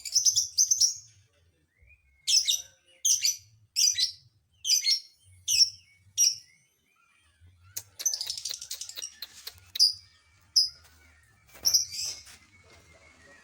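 Lovebird calling in sharp, high chirps: a quick run at the start, then a string of single chirps about one every three-quarters of a second, and a longer rapid chatter about eight seconds in before a few last chirps.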